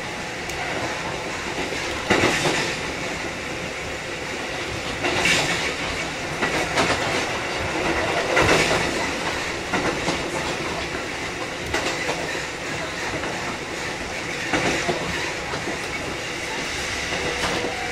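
Kotoden 1080 series (ex-Keikyu 1000 series) electric train running, with steady rolling noise and the wheels clacking over rail joints every few seconds.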